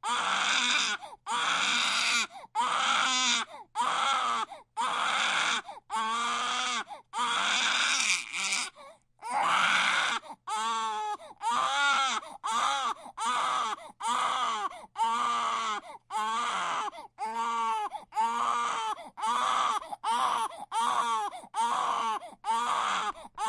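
Baby crying hard in a steady run of short, high wails, about one a second, with quick breaths between them.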